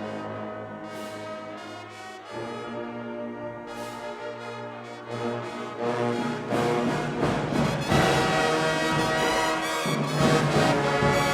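Band brass section playing held chords, swelling louder about halfway through into a fuller, louder passage with drum hits.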